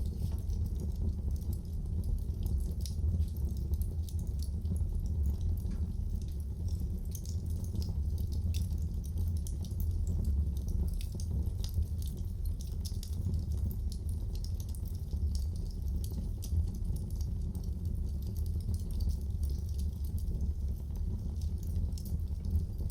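Fire in a fireplace crackling: many small sharp pops and snaps throughout, over a steady low sound.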